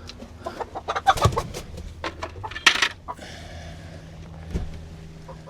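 Chickens clucking in a coop, with a run of sharp clicks and clinks about a second in and a louder clatter just before the three-second mark.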